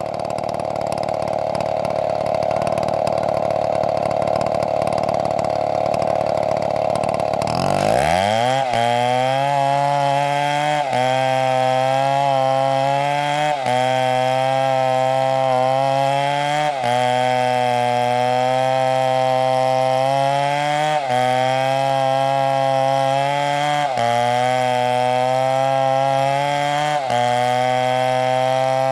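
STIHL two-stroke chainsaw running hard at high revs. About eight seconds in, its note drops suddenly to a lower, steadier pitch. From then on it dips briefly and climbs back every two to three seconds.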